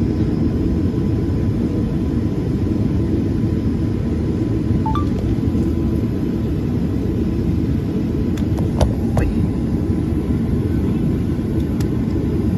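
Steady low rumble of an airliner, with a faint steady whine over it and a few light clicks about two-thirds of the way in.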